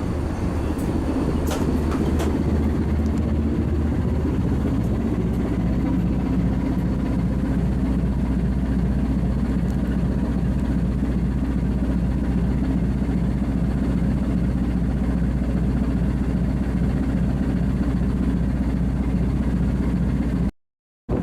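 Coastal cargo ship's diesel engine running steadily: a constant low drone. It drops out briefly near the end.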